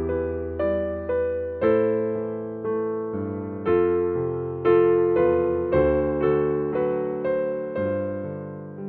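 Soft background music on electric piano: sustained chords struck about once a second, each fading slowly.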